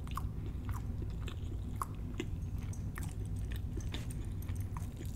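Close-miked chewing of a mouthful of crab cake: irregular small wet clicks and smacks of the mouth, several a second.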